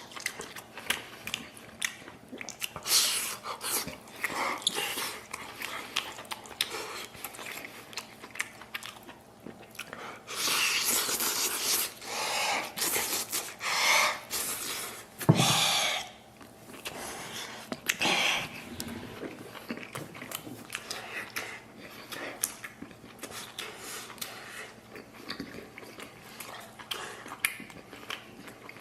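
A person chewing and biting spicy stewed meat, with close, wet mouth noises and many small clicks. It gets louder in several stretches about ten to sixteen seconds in.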